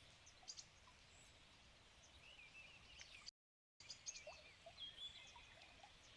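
Faint evening birdsong: several small birds chirping and warbling over a quiet outdoor hiss. The sound cuts out completely for about half a second about halfway through.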